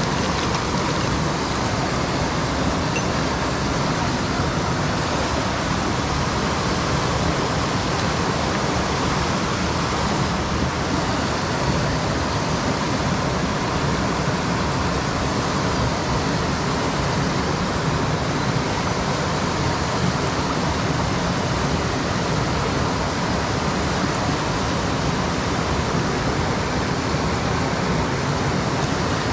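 Mountain stream water running, a steady even rush that holds without breaks.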